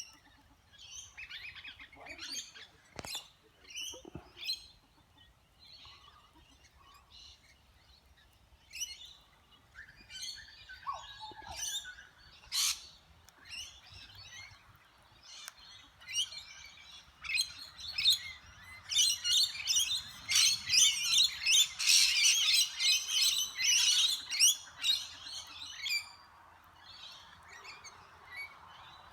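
A flock of lorikeets calling and squabbling at a feed bowl with short, shrill chirps and squawks. The calls thicken into a dense, loud chorus about two-thirds of the way through, then thin out near the end.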